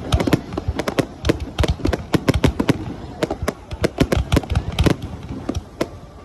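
Aerial fireworks going off in a rapid, irregular barrage of sharp bangs and cracks, several a second, thinning out near the end.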